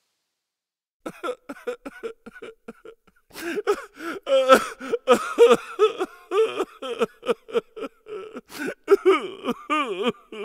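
A rapid series of short, loud farm-animal calls, several a second, each bending up and down in pitch. They begin about a second in and grow denser after about three seconds.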